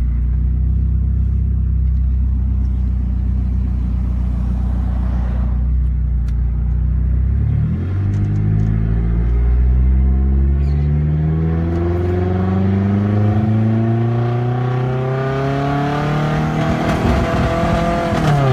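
Turbocharged Hyundai Sonata engine heard from inside the car, running steadily at low revs. About eight seconds in, the revs climb steadily for about ten seconds as it pulls through a gear, with the turbo's whistle building toward the top. The revs then drop sharply just before the end as the throttle is let off.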